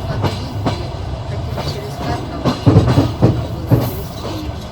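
Passenger train wheels clacking over rail joints, with a steady running rumble under the beat. The knocks come in a quick cluster about two and a half to four seconds in.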